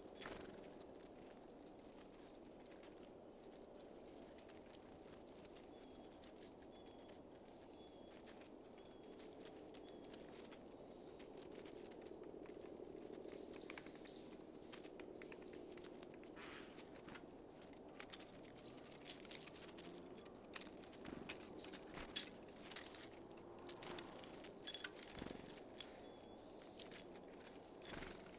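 Faint high calls and chirps of small songbirds at a feeder, followed in the second half by a run of sharp taps and clicks from the birds at the feeder, over a low steady background hum.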